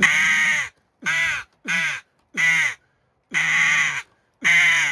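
Mouth-blown crow call, designed for hooded crow, sounded with the caller's own voice added into it: six caws in an uneven rhythm, some short and some drawn out.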